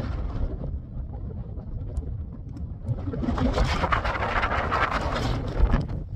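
Wind buffeting a phone's microphone: a low rumble throughout, with a gust of rushing hiss that swells about three seconds in and eases near the end.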